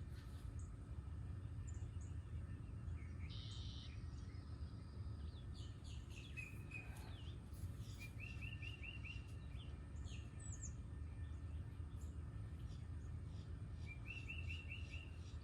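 Wild birds singing: scattered chirps and a short phrase of five or six quick notes, heard twice, over a steady low rumble.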